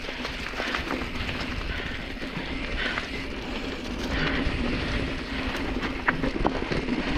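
Specialized Stumpjumper mountain bike rattling as it rolls down a rough, rocky trail, its tyres crunching over dirt and stones with scattered sharp clicks and knocks from the frame and chain.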